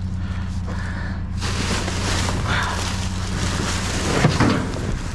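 A vehicle engine idles with a steady low hum. After about a second and a half a broad rustling, scraping noise of junk being handled joins it, with a sharper knock about four seconds in.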